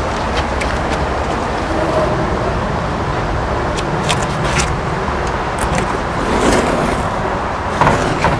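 Steady low rumble throughout, with several short rips and rustles of masking tape being peeled away from a fresh caulk bead about halfway through and near the end.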